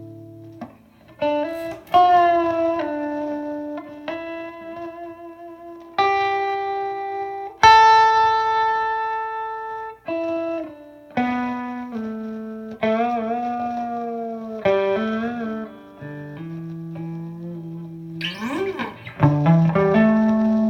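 Electric guitar played clean through an Engl Ironball tube amp with its boost on: single notes and chords struck one after another and left to ring, several with vibrato in the middle and a sliding note near the end.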